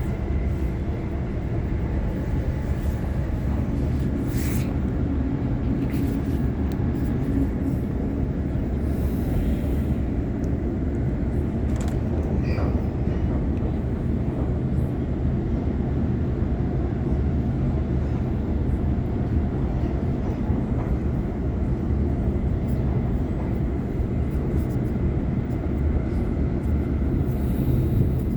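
Waratah electric multiple-unit train running steadily at speed: a continuous low rumble of wheels on track, with a few brief clicks.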